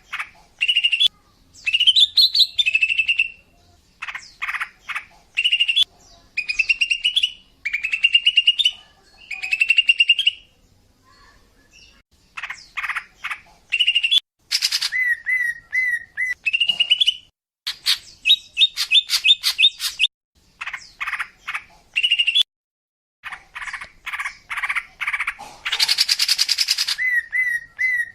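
A female cucak ijo (green leafbird) calling: short, repeated phrases of chirps, quick trills and rising warbles, with a harsh raspy call about 25 seconds in. It is a female call of the kind used to lure male cucak ijo.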